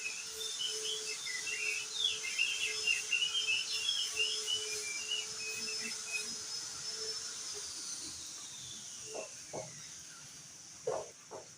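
Crested white-eye (opior jambul) singing a rapid, jumbled twittering song of quick chirps for about six seconds. Behind it a steady high thin tone slides down after about seven seconds. A few short, lower notes come near the end.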